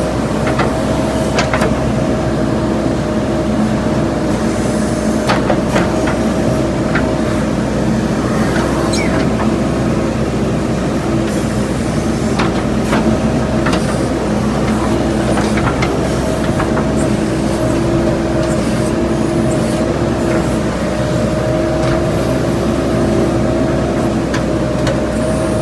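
JCB backhoe loader's diesel engine running steadily under load while it digs, with scattered sharp clicks and knocks from the bucket and soil.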